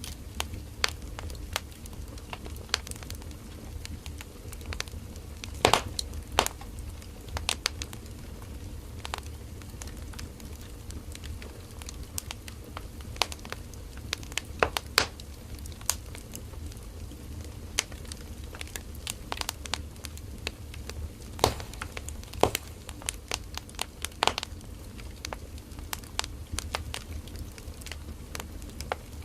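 Firewood burning in a campfire: a steady low rumble of the flames with irregular sharp crackles and pops from the burning wood, a few of them louder.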